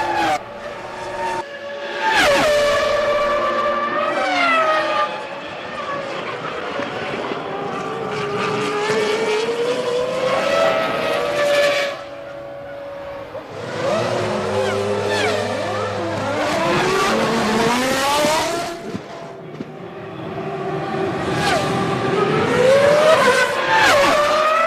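Formula One V10 engines at racing speed, their pitch climbing under acceleration and stepping down through downshifts, with several cars heard at once at times, their pitches crossing. The sound changes abruptly a few times.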